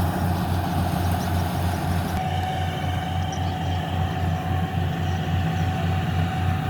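Yanmar 70V combine harvester running steadily while cutting rice: a pulsing low engine rumble under a steady whine from the machinery. About two seconds in, the hiss above it drops off.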